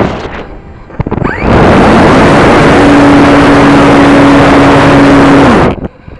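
RC model airplane engine running loudly close to the microphone at a steady high pitch. It starts about one and a half seconds in and cuts off suddenly near the end.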